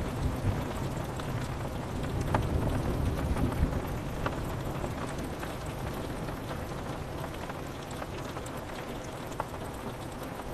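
Steady rain on a window, with scattered sharp drop ticks, while the deep rumble of a roll of thunder dies away over the first few seconds.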